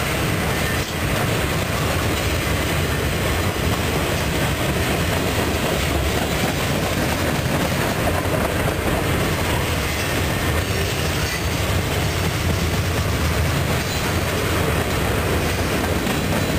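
Mixed freight train of boxcars, hoppers, tank cars and an autorack rolling steadily past close by: a continuous, even rumble of steel wheels on the rails.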